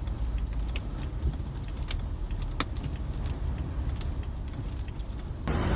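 Tornado-force wind buffeting the microphone: a steady low rumble with scattered sharp clicks and taps. Near the end it cuts to a louder rushing noise.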